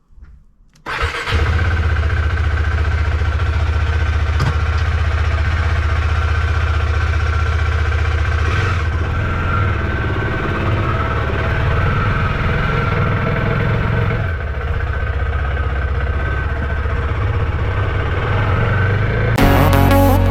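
Motorcycle engine starting about a second in, then running steadily. Music comes in near the end.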